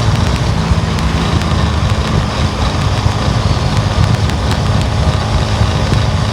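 Car driving on the road: a steady, low rumble of tyre and engine noise with no change in pace.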